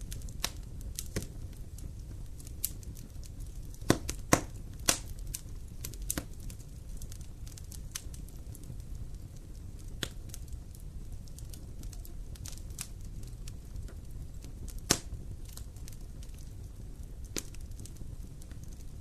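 Wood campfire crackling, with irregular sharp pops, a loud cluster of them about four seconds in and another loud pop near the end, over a low steady rumble.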